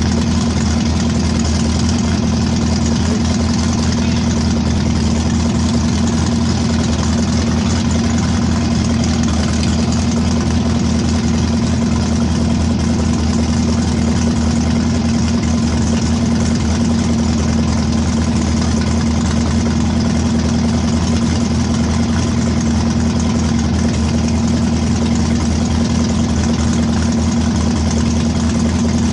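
Chevrolet Vega engine idling steadily but running badly, with two dead spark plugs leaving two cylinders misfiring.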